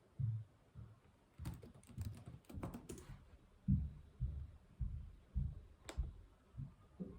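Typing on a computer keyboard: a quick run of keystrokes, then slower, heavier key presses about twice a second, with one sharper click near the end.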